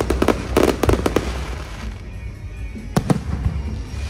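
Aerial fireworks going off in rapid crackling clusters of sharp bangs: one volley in the first second or so and another about three seconds in, over a steady low hum.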